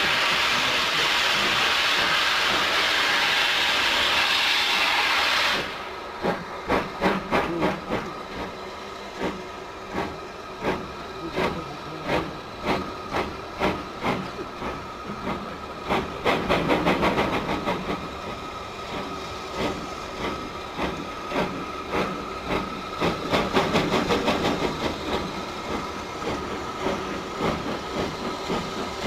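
Steam locomotive: a loud steady steam hiss that cuts off abruptly about five seconds in, followed by the locomotive's exhaust chuffing in regular beats that quicken as it gets under way.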